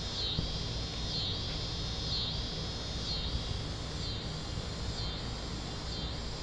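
High-pitched insect chorus pulsing in a regular rhythm about once a second, over a low outdoor rumble.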